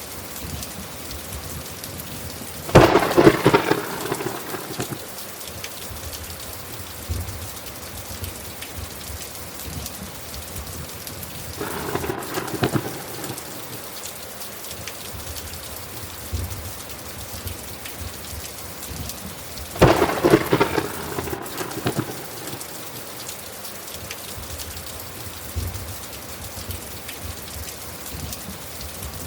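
Thunderstorm: steady rain falling, with three crackling thunderclaps about 3, 12 and 20 seconds in, the first and last loudest.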